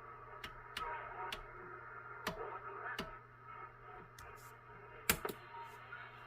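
CB base station receiver (President Washington) tuned to the 11-meter band during skip: static with repeated sharp crackles and pops, and faint wavering tones and distorted signals coming through the set's speaker over a steady hum.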